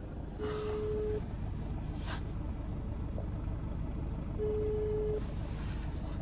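Telephone ringback tone on a call placed on speaker: two steady beeps, each just under a second long and about four seconds apart, the Russian-style ringing signal while the call waits to be answered. A steady low vehicle-cabin rumble runs underneath.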